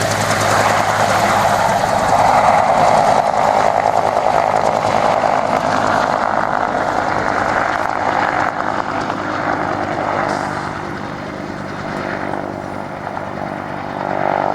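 UH-1 Huey helicopter running close by, a loud steady rotor and turbine noise that eases off over the last few seconds.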